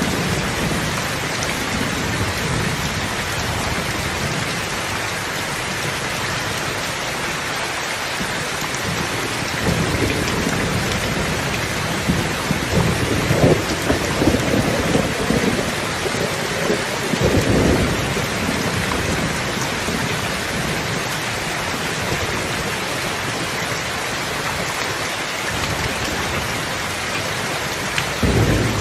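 Steady, heavy rain falling, with low rolling rumbles of thunder swelling in the middle and again near the end.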